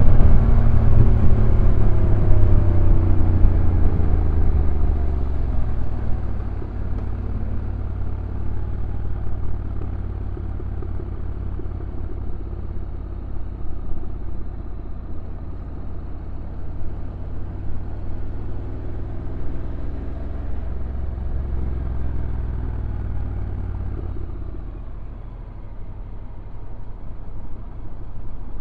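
Honda NC750X DCT's parallel-twin engine heard from on board going downhill: the engine note falls in pitch and level over the first several seconds as the bike slows, then runs low and steady under a heavy low rumble, easing off briefly near the end.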